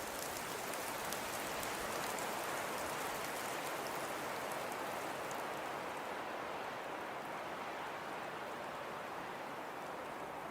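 Snowfall ambience: a steady soft hiss with faint fine pattering, its brighter top fading a little after about six seconds.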